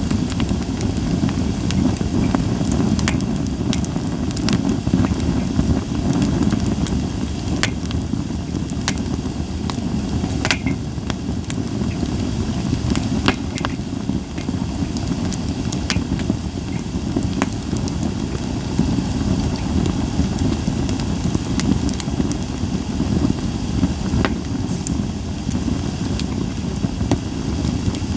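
Japanese white pine logs burning in a campfire, popping and crackling irregularly, a few louder snaps among many small ones, over a steady low rumble.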